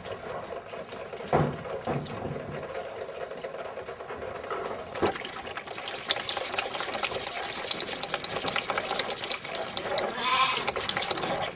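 Barn clatter and knocks around calves, growing busier after about six seconds, with one short calf call about ten seconds in.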